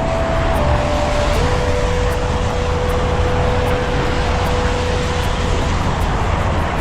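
Steady city traffic and wet-road noise heard from a moving bicycle, with a low rumble throughout. A thin whine steps down in pitch over the first second and a half, then holds.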